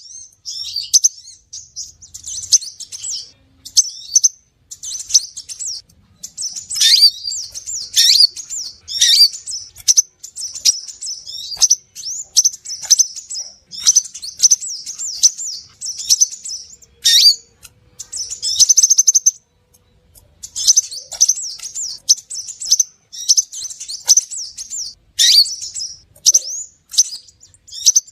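Crimson sunbird (sepah raja) calling: rapid strings of high, thin chirps and twitters in bursts a second or two long, with short pauses between them.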